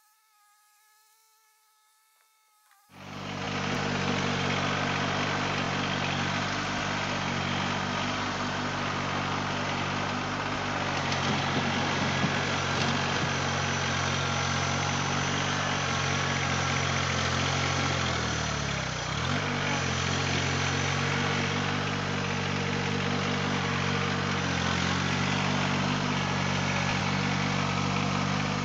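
Compact tractor's diesel engine running steadily, cutting in abruptly about three seconds in after a faint buzz. Its pitch dips briefly and recovers about two-thirds of the way through.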